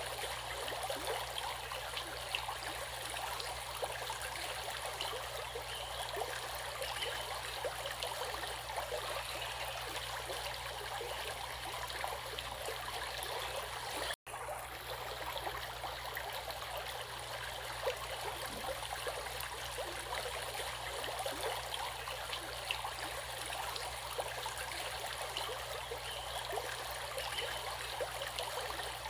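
A stream running steadily over stones, with a close, fine bubbling and splashing. The sound cuts out for an instant about halfway through.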